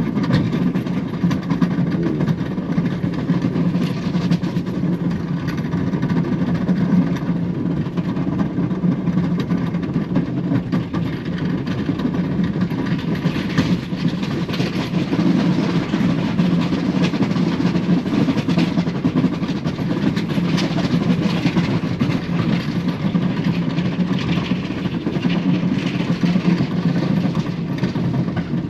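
Engine of a vehicle plowing snow, running steadily, with irregular knocks over it.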